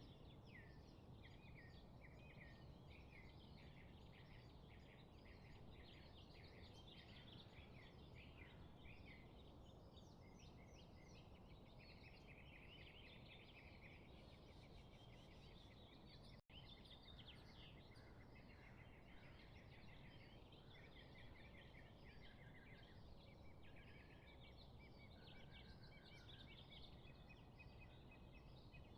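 A faint, dense chorus of many birds chirping and trilling at once over a steady low background hiss, with a momentary dropout a little past halfway.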